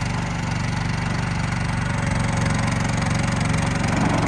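Mini skid steer's 13.5-horsepower gasoline engine running steadily, getting a little louder about two seconds in.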